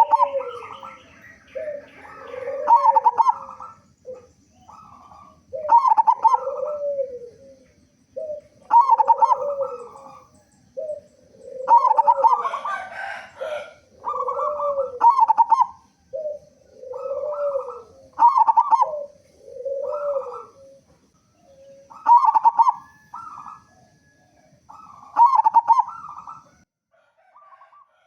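Zebra dove (local perkutut) cooing repeatedly, one phrase of several notes about every three seconds. Faint short high chirps from other small birds come between the phrases.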